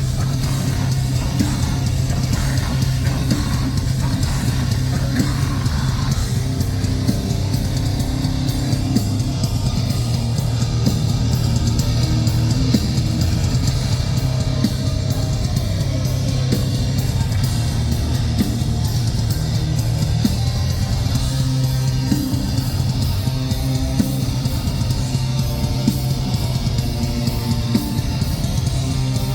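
Live metalcore band playing heavy metal: distorted electric guitars over bass and a fast-hit drum kit, loud and steady throughout.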